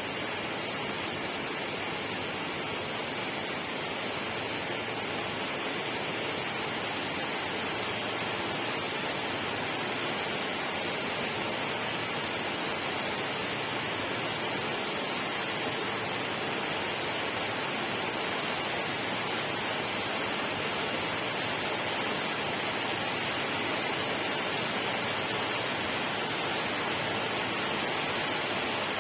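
Steady, even rush of water noise, unchanging throughout.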